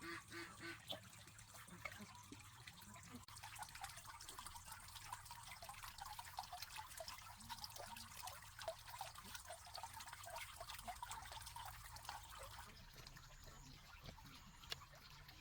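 Faint poultry calls: a quick run of quack-like notes in the first second, then scattered short ticks and small calls.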